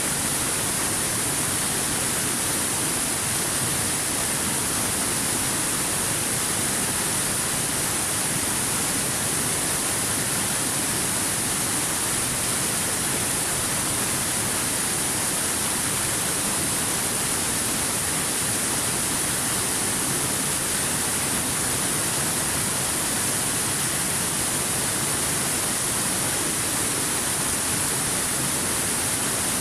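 Waterfall: water falling in a steady, unbroken rush with a bright hiss on top.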